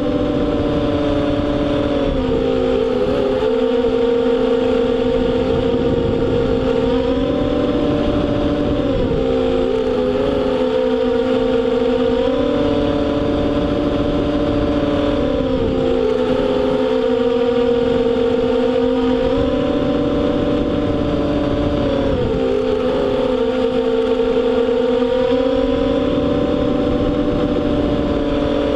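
FPV racing quadcopter's motors and propellers whining steadily, the pitch stepping up and dipping every few seconds as the throttle changes around the laps of the oval.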